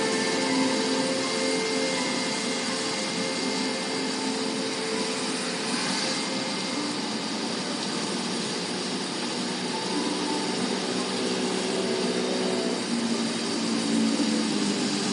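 Steady road and rain noise of a car driving, heard from inside the cabin, with music playing faintly underneath.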